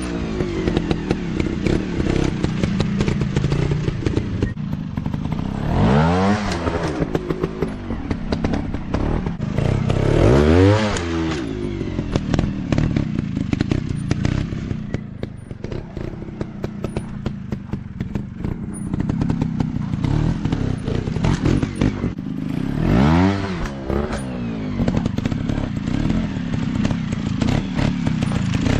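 Dirt bike engine running hard over rough ground, revving up and dropping back three times, about six, ten and twenty-three seconds in, with clattering and knocks from the bike in between.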